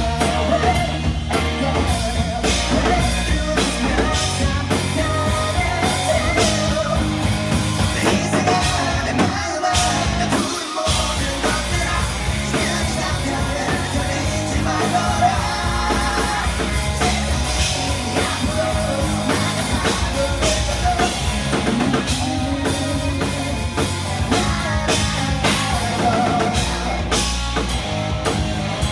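Rock band playing live with a singer: drum kit, electric guitar and bass under the vocal. About ten seconds in, the bass and low drums drop out for a moment, then the full band comes back in.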